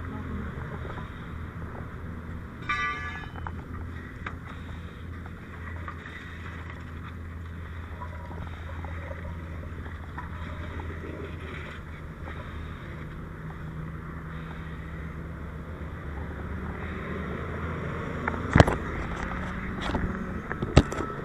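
Steady low engine rumble from an idling vehicle, with a brief high tone about three seconds in and a few sharp knocks near the end.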